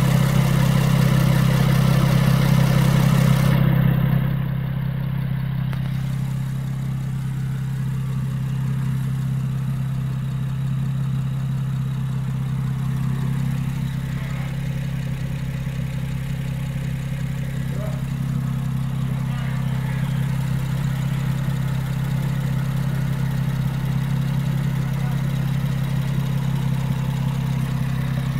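Honda J30A V6 engine running, louder for about the first four seconds and then settling to a steady idle.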